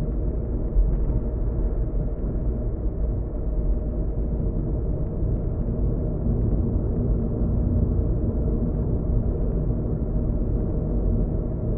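Steady low rumble of a car driving, the road and engine noise heard from inside the cabin, with a faint steady hum over it.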